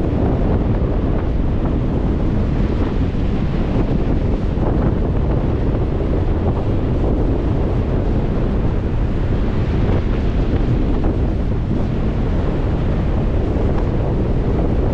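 Strong wind buffeting the microphone with a steady low rumble, over waves breaking on a Lake Michigan shore.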